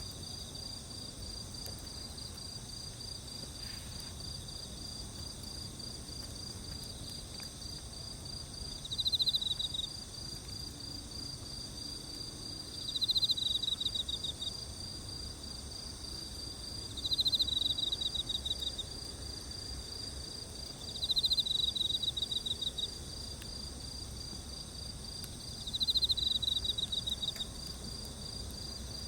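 Insects singing: a steady, fast, high trill keeps going, while another insect gives a pulsed phrase about a second long roughly every four seconds.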